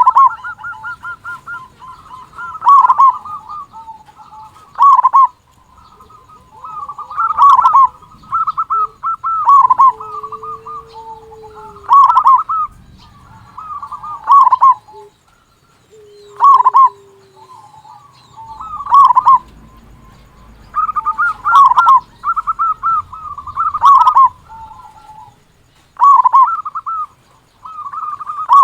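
Zebra dove (perkutut) cooing: loud, rolling coo phrases repeat about every two to two and a half seconds, with softer trilled notes between them. A lower, drawn-out coo comes in now and then.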